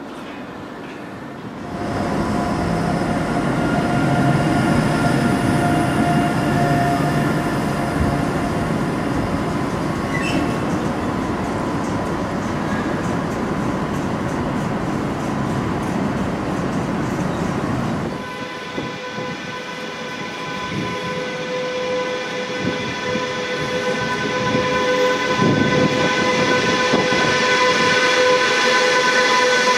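A train running through the station with a steady rumble and clatter, which gets louder about two seconds in. About eighteen seconds in, this changes abruptly to a Deutsche Bahn electric locomotive passing slowly along the platform with a steady whine of several held tones, growing louder toward the end.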